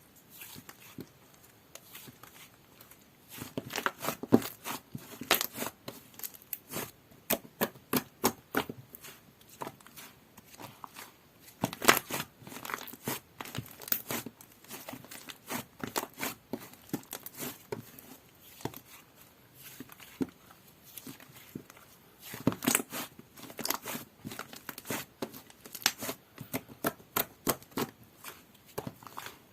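Slime being squished, folded and stretched by hand, with irregular sticky pops and crackles that come in dense clusters with quieter gaps between them.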